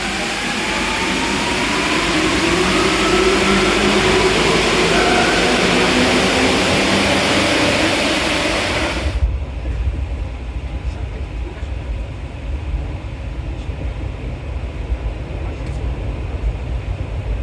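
Rubber-tyred MP14 metro train running through a tunnel: a loud, even rushing noise with a faint rising motor whine. About halfway through, the rushing cuts off suddenly, leaving a lower rumble.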